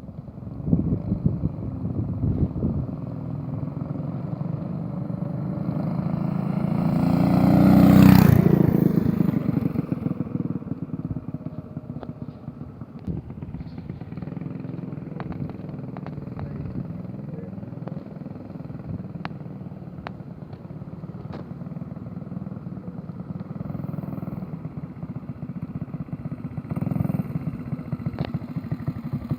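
Mini bike's small engine running, growing louder as it comes close and passes at about eight seconds, then fading and running on at a lower level with a few sharp ticks.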